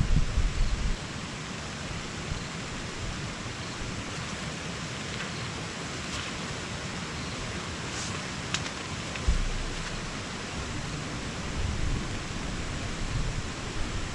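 Steady hiss of typhoon rain, with gusts of wind rumbling on the microphone near the start and again around the middle and toward the end.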